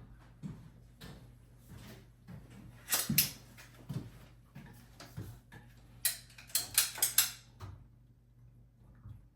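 A series of sharp clicks and light knocks, like objects being handled: a pair about three seconds in, then a quick run of about five between six and seven and a half seconds in.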